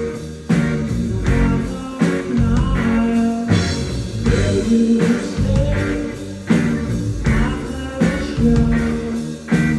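Rock band playing live, with electric guitar, bass and drums keeping a steady beat and a guitar line sliding between notes over changing chords.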